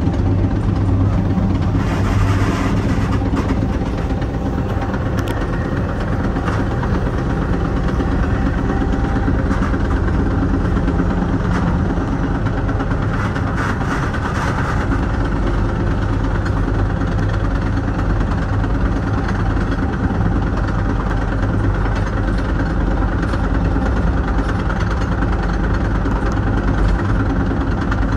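Steady rumble and hiss of a Metra commuter train running along the track, heard from inside the car, with the hiss rising briefly about two seconds in and again around halfway.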